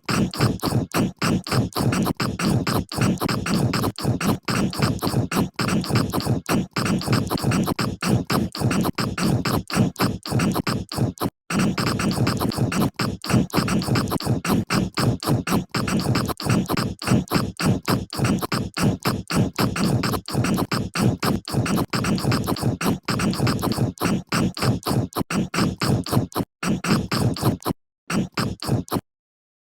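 Close-miked chewing and crunching of a cookie, a rapid run of crisp crunches about three a second, stopping abruptly near the end.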